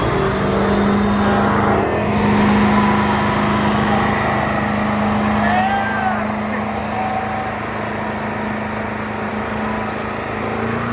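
Car engine held at steady high revs, one unchanging note over a loud noisy background.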